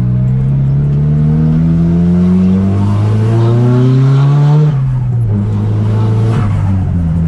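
Nissan Silvia S15's turbocharged SR20DET four-cylinder through a straight-piped exhaust, pulling in gear with its pitch rising slowly, then dropping sharply about four and a half seconds in as the throttle is lifted or a gear is changed, and running on steady and lower.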